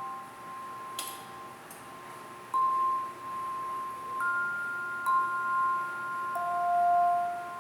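Slow, sparse chime-like notes: single high tones struck one at a time, each ringing on for several seconds so that they overlap. A light click about a second in.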